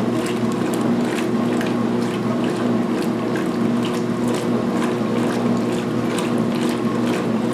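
2016 Speed Queen agitator washer in high-speed agitation during its pre-wash: a steady motor and drive hum under irregular sloshing and splashing of water and towels in the tub.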